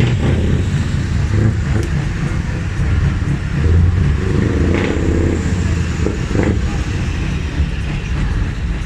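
A truck engine running with a steady low rumble.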